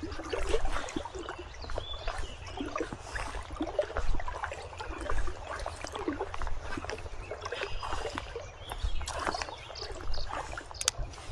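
Shallow river water splashing and sloshing around a wader's legs in irregular surges.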